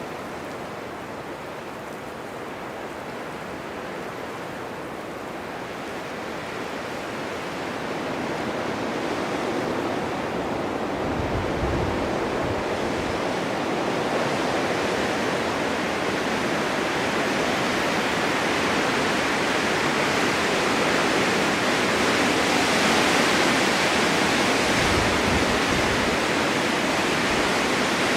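Blizzard wind blowing snow, a steady rushing that slowly swells louder, with brief low rumbles about twelve seconds in and again near the end.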